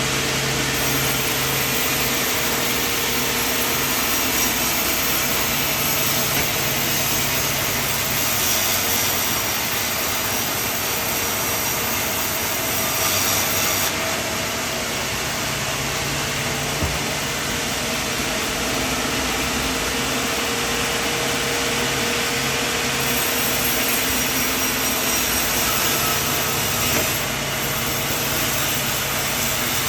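Portable sawmill running, its engine humming steadily under load while the blade saws through wood; the sound shifts abruptly a few times.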